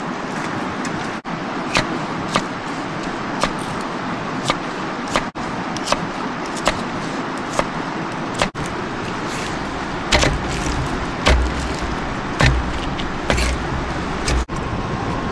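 Wood fire crackling, with sharp irregular pops over a steady hiss. A few low thumps come in near the end.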